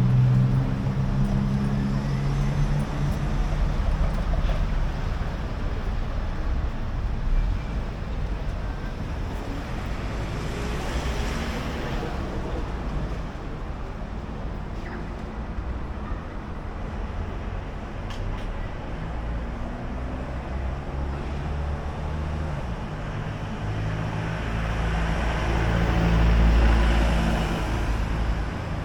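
Street traffic: motor vehicles running and passing, with a steady low engine drone early on. A vehicle passes loudly with a deep rumble near the end.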